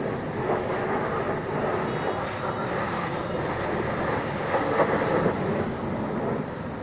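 Steady hiss and rush of a high-pressure washer jet spraying water onto a car, swelling slightly about two thirds of the way through.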